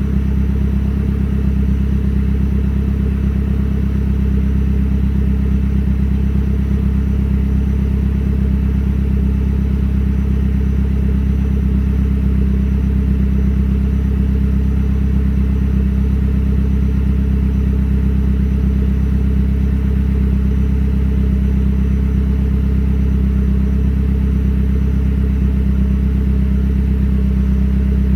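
Mazdaspeed's turbocharged four-cylinder running at a steady idle through a Magnaflow turbo-back exhaust with a CP-E catted downpipe, a deep, even exhaust note that holds steady throughout with no revving, during warm-up after a cold start.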